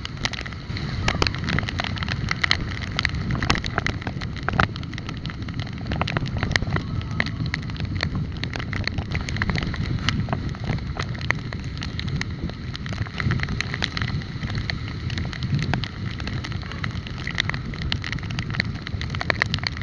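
Wind buffeting the microphone on a moving bike, with low road rumble and many scattered rattles and clicks throughout.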